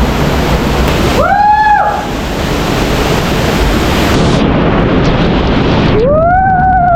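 Waterfall pouring, a loud steady rush of falling water. Two drawn-out pitched sounds stand out over it: a short one about a second in and a longer, arching one near the end.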